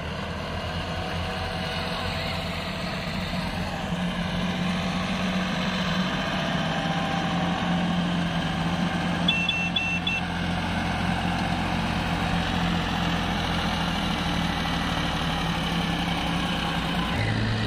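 A motor vehicle engine running steadily at a low idle hum, with a few short high beeps a little past nine seconds in.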